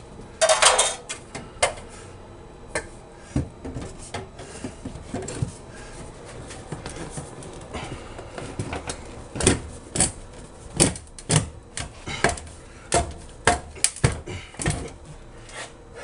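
Irregular sharp knocks and clatters from work on a drain pipe. A loud rattling clatter comes about half a second in, then scattered knocks that come faster in the second half.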